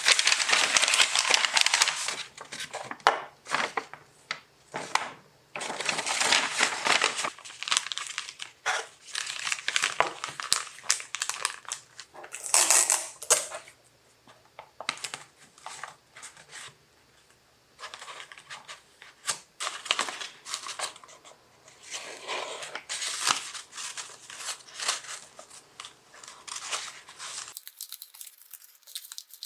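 Crinkly material being handled and crumpled, in irregular bursts of rustling with a few sharp clicks.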